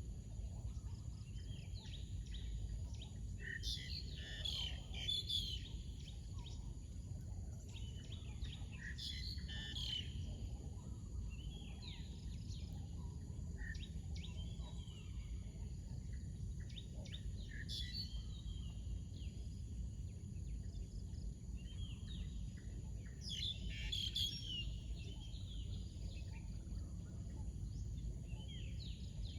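Wild birds chirping and calling in scattered flurries, the busiest about four seconds in, near nine seconds and around twenty-four seconds. Behind them run a steady high-pitched hum and a low rumble.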